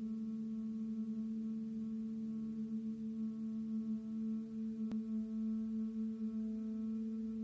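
A sustained, steady drone on one low pitch with faint overtones, wavering slightly in level. A single sharp click comes about five seconds in.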